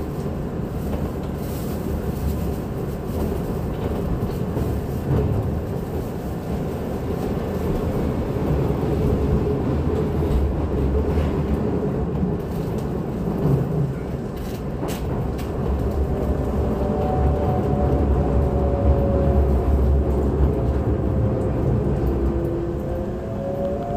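Running sound inside a Keisei 3600-series electric train car: a steady rumble of wheels on track with a few sharp clicks from the rail. In the second half, whining traction-motor tones come in and glide slightly, and one tone rises near the end.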